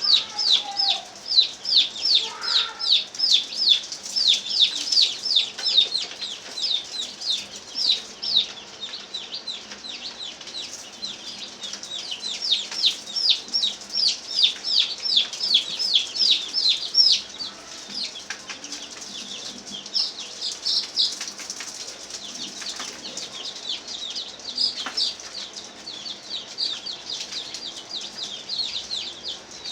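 Many poultry chicks peeping together in short, high, falling peeps, several a second and overlapping. The peeping thins out and grows quieter after about 17 seconds.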